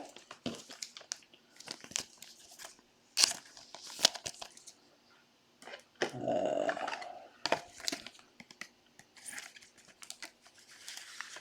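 Trading-card packaging and cards being handled at the table: scattered light clicks, taps and crinkles, with a longer rough rustle or tear lasting about a second, roughly six seconds in.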